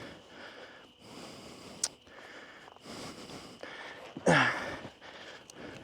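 A man breathing hard, in and out in soft rushes about a second apart, with a single short grunt a little past four seconds in.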